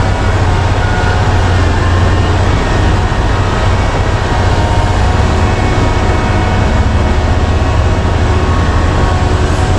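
Large mining excavator's diesel engine running steadily under load: a constant deep hum with a haze of mechanical noise and no breaks.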